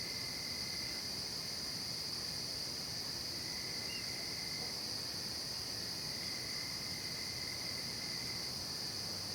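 Night insect chorus of crickets, a steady, unbroken high trilling. A fainter, lower trill comes and goes a few times.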